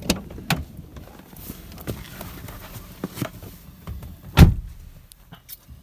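Clicks and knocks of a 2003 VW Jetta's door being opened and someone climbing in, then a heavy thump of the door shutting about four and a half seconds in.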